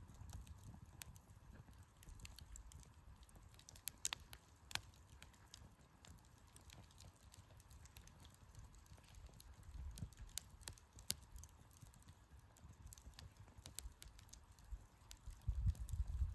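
Wood fire crackling in a campfire stand: sparse sharp pops and snaps a few seconds apart, over a faint low rumble that swells near the end.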